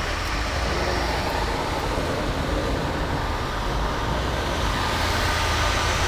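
Steady road and engine noise of a car driving, a low rumble under an even hiss, growing slightly louder toward the end.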